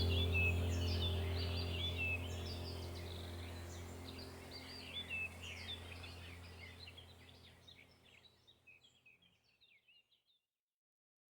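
Background track of small birds chirping and singing over a low steady drone, fading out gradually to silence about eight seconds in.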